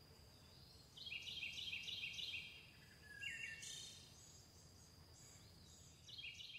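Faint outdoor birdsong: a bird rapidly repeats a short high two-note phrase about six times, gives a few more chirps, and starts the phrase again near the end, over a thin steady high whine.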